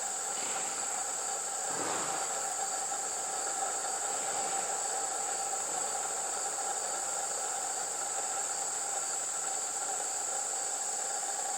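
Steady chorus of crickets, a continuous high trill that holds level throughout, with a brief soft sound about two seconds in.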